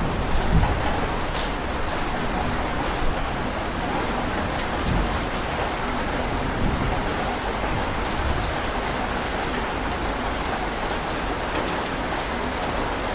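Heavy rain falling steadily: a dense, even hiss with individual drops splashing through it. A low rumble of thunder dies away in the first second or so.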